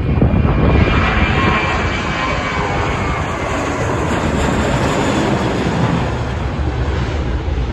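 Airliner passing low overhead near the airport: a loud, dense engine noise with a faint whine that falls slightly in pitch, easing off over the last couple of seconds.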